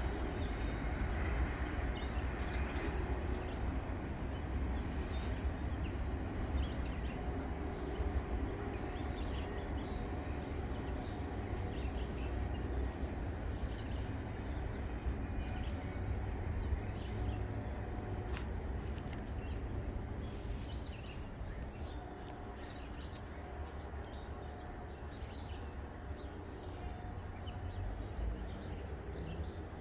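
Low rumble of a freight train moving away, easing off about two-thirds of the way through, with birds chirping throughout.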